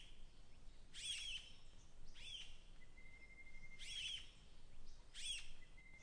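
Faint wild bird calls: short, high chirping notes repeated every second or so, a few given as quick pairs. Between them a thin steady high tone is held briefly, about three seconds in and again near the end.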